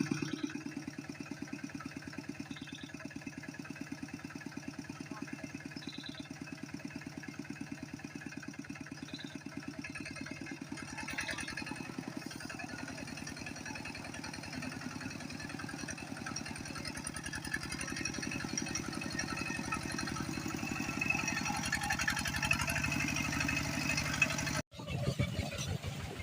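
Small motorcycle engine running steadily, its firing pulses even throughout.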